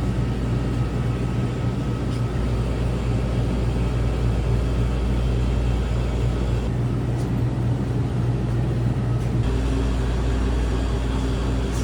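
Steady road and engine rumble of a Subaru Crosstrek heard from inside the cabin while driving, with a brief shift in the noise between about seven and nine seconds in.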